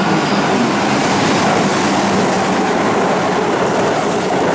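Keihan 8000-series train passing through the station at speed: a loud, steady rumble of wheels on rail and running gear as the cars go by.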